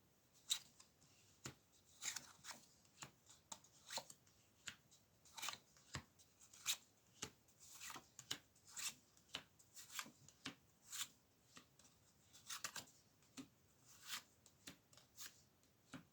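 Tarot cards being shuffled by hand: a faint string of short, irregular card snaps and rustles, about one or two a second.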